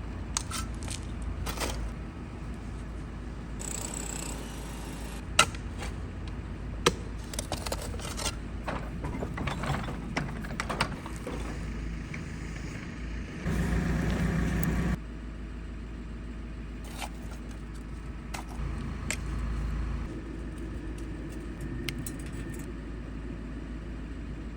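Repair work sounds: scattered metallic clicks, clinks and knocks over a steady low engine-like hum, with a louder mechanical stretch about halfway that lasts a second or two and cuts off suddenly.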